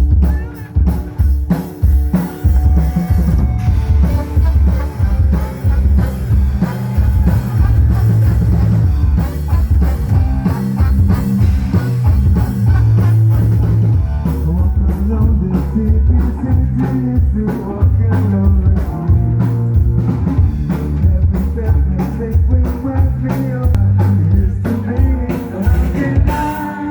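Rock music with drum kit, bass and electric guitar playing to a steady beat.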